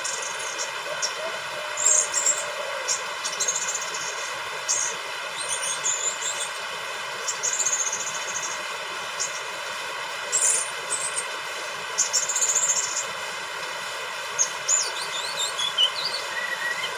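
Young orange-headed thrush singing in short, high-pitched phrases, with a run of falling notes near the end, over a steady hiss. This is a bird just past its spotted juvenile stage, still learning its full song.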